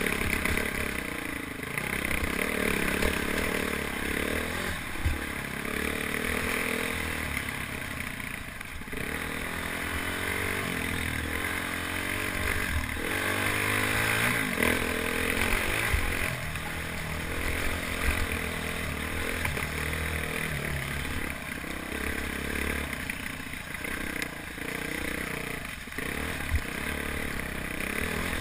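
Dual-sport motorcycle's single-cylinder four-stroke engine pulling up a rocky dirt trail, its pitch rising and falling again and again with the throttle. Low rumble and rattling from the bike bouncing over rocks, with wind noise on the helmet-mounted microphone.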